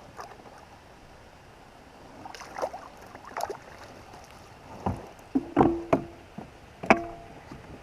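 Knocks and bumps against the hull of a fishing kayak: light handling noises at first, then a few sharp knocks with a short hollow ring from about five seconds in.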